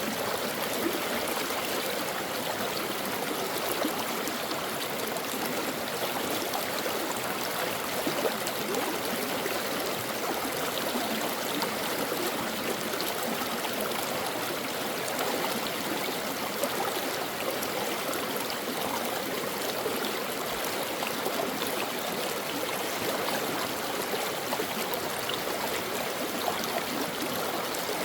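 A brook running over stones: a steady, even rush of flowing water with small splashes and gurgles.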